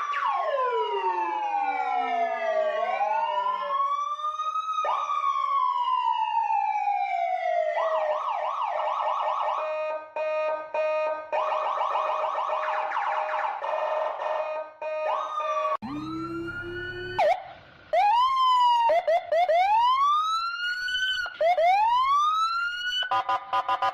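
Electronic emergency-vehicle siren changing through its tones. It starts with a slow rising and falling wail, moves to a fast warbling yelp, then gives a string of quick rising whoops about a second apart. The fast warble returns near the end.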